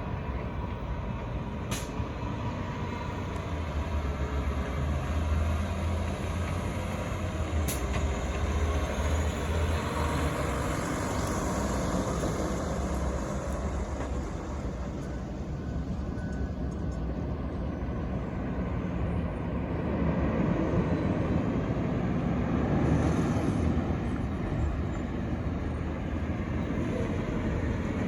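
Diesel garbage trucks running and driving past, a steady low rumble that grows louder near the end.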